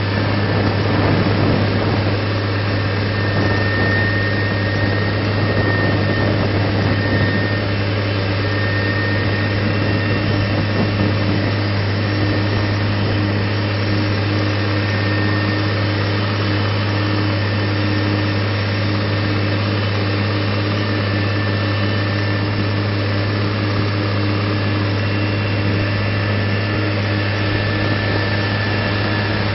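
New Holland T7040 tractor's six-cylinder diesel engine running steadily under load while pulling a disc plough, with a constant low hum and a faint high whine.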